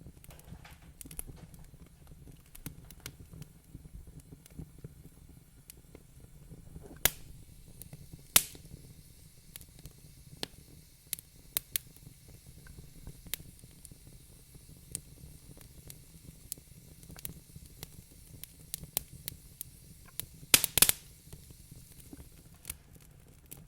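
Wood fire crackling in a fireplace: scattered sharp pops over a soft hiss and a low rumble. The loudest pops come about seven and eight seconds in, with a quick cluster of them near the end.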